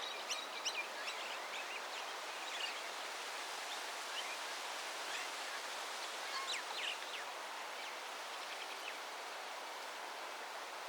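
Small birds chirping, with short high calls scattered through the first seven seconds and few after, over a steady outdoor hiss.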